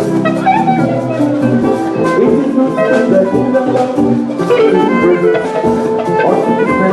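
Live church band music for a choir anthem, with pitched instruments and drums keeping a steady beat.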